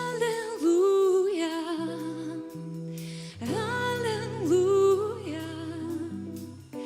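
Worship song: a voice singing two long melodic phrases over sustained keyboard or pad chords.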